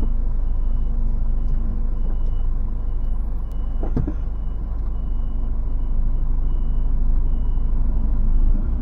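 A lorry's diesel engine running steadily, with a faint high beep that repeats on and off and one short sharp sound about four seconds in.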